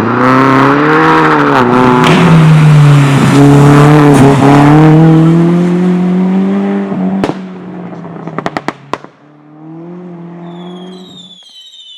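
Competition car engine revving hard, its pitch rising and falling, then a sharp crack about seven seconds in and a quick string of cracks a second later. The engine then runs at a lower, steady note and stops about eleven seconds in.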